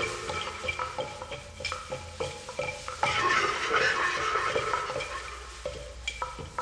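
Primitive percussion instrument rattling and clicking: many small hard objects knocking and scraping together, with short ringing tones, thickening into a dense rattle a few seconds in.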